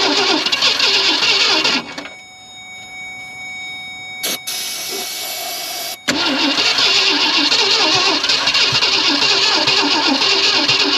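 The starter cranks the 1965 Ford Thunderbird's V8 without it catching: about two seconds of cranking, a pause broken by a click, then cranking again without a break. The engine will not restart, which the owner puts down to a flooded engine or a weak jump box.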